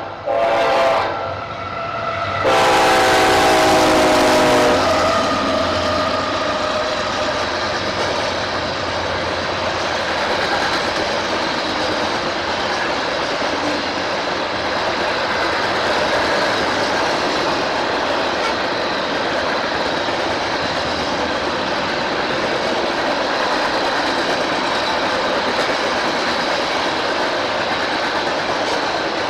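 Locomotive horn sounding at a grade crossing, a short blast and then a longer, louder one whose pitch drops as the locomotive goes by. After it, the steady rolling noise of the train's cars passing over the rails.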